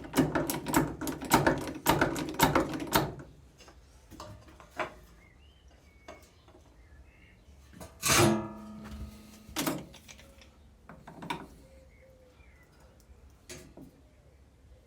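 Metal clatter and knocks as car ramps and a wheel dolly are handled under a car: a rapid run of rattling knocks at first, then scattered thuds, and one loud metallic clang about eight seconds in that rings briefly.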